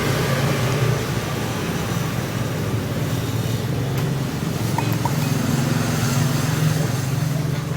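Honda Vario Techno 110 scooter's single-cylinder engine running steadily after the restoration.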